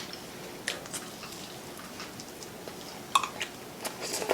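A few light clicks and taps of tableware during a meal, scattered over quiet room tone: a pair about a second in, and more near the end.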